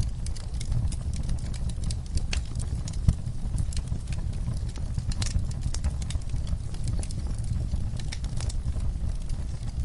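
Fireplace fire crackling: a steady low rumble of flames with scattered sharp pops, one louder pop about three seconds in.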